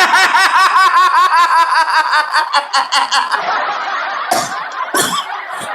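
A man laughing: a long run of quick ha-ha pulses that fades out about four seconds in, followed by a couple of short breathy sounds.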